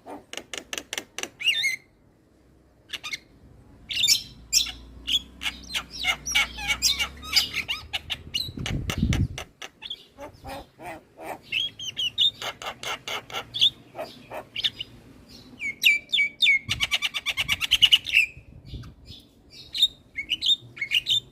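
Javan mynas singing and chattering: fast runs of sharp clicking, rattling notes mixed with short whistled calls. A brief low rumble comes about nine seconds in.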